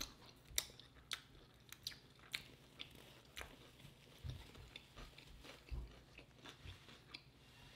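Faint close-miked chewing and wet mouth clicks, scattered and irregular, with a couple of soft low thumps partway through.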